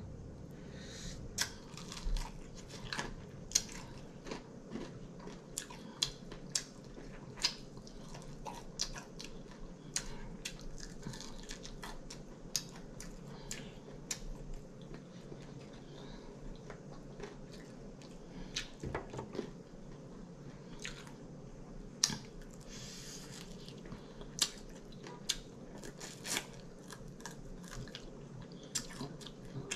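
A person chewing and biting sauced air-fried chicken wings close to the microphone: irregular wet mouth clicks.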